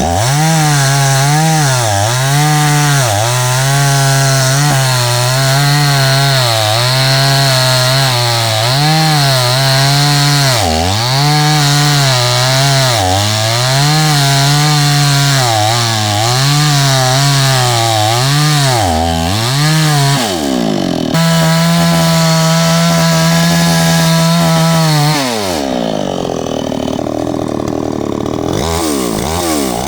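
Two-stroke chainsaw cutting wood, its engine pitch sagging under load and recovering again and again in quick succession. About 21 s in it revs steadily out of the cut, then winds down toward idle and revs up again near the end.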